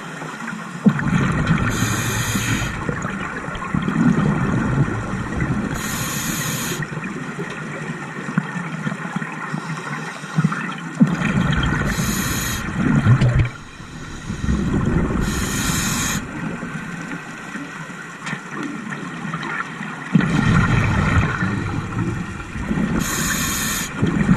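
Scuba diver breathing through a regulator underwater: a hissing rush of exhaled bubbles comes about five times, each lasting about a second, over a steady gurgling water rumble.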